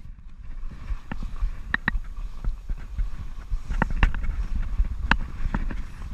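Wind rumbling on the microphone aboard a small life raft at sea, with scattered sharp knocks and clicks, a few each second, from the raft moving on the water.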